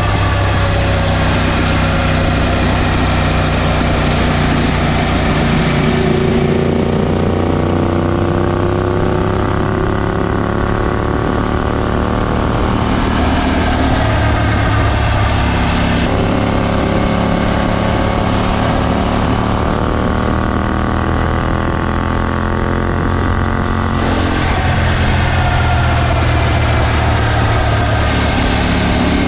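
KTM LC8c 270° parallel-twin motorcycle engine running through a decatted exhaust with an Akrapovic slip-on muffler. It makes a steady, loud exhaust note whose pitch drifts slowly down and then back up in the middle.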